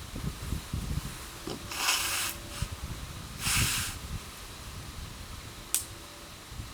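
Wood campfire burning, with two short bursts of hissing about two and three and a half seconds in and a single sharp crackling pop near the end.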